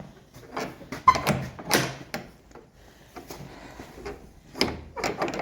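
A string of irregular knocks and clunks in a stable, typical of a door, bolt or hooves on a hard floor.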